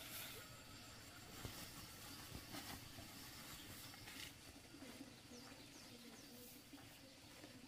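Near silence with faint bird calls: a few short chirps about two-thirds of the way through, over scattered light clicks.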